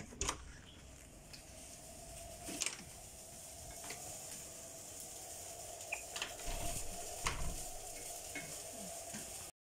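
Garlic fried rice sizzling in a pan, with scattered light clicks and knocks of utensils and a steady hum in the background.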